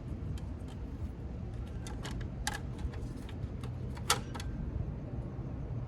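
Scattered light metallic clicks and taps of a license plate, its frame and screws being handled and fitted to a truck's plate mount, with a sharper click about four seconds in, over a low steady rumble.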